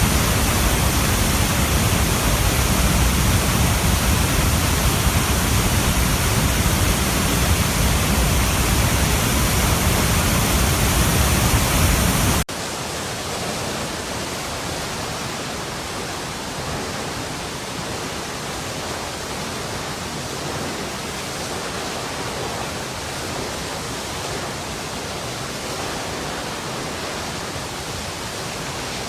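Steady rush of flowing water. About twelve seconds in it cuts abruptly to a quieter, thinner rush with less low rumble.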